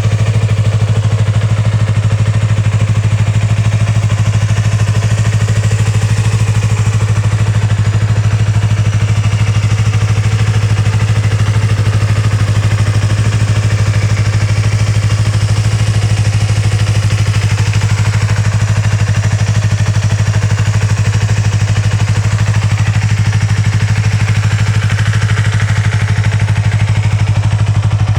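Yamaha YZF-R25's 250 cc parallel-twin engine idling steadily through an aftermarket Yoshimura Cyclone silencer, with no revving.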